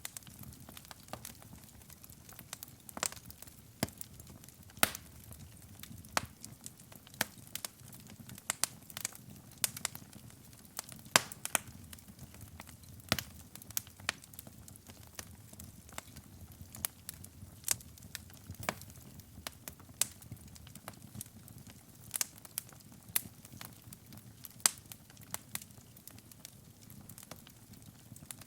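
Wood fire burning in a fireplace: frequent, irregular sharp crackles and pops over a soft low rumble of flames.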